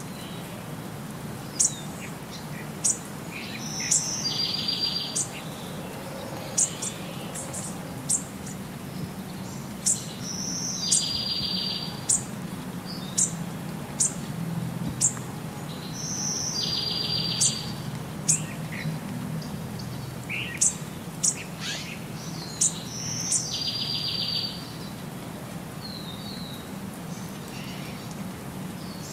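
Bird calls: many short, high chirps, with a buzzy trill that comes back about every six seconds.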